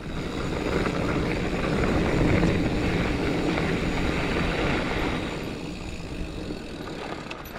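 Rushing wind and tyre noise from a Giant Fathom mountain bike rolling along a dirt trail, picked up by a helmet-mounted camera; it builds to its loudest a couple of seconds in and eases off after about five seconds as the bike slows.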